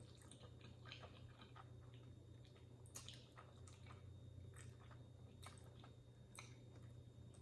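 Faint chewing of noodles: soft, irregular wet mouth clicks over a low steady hum.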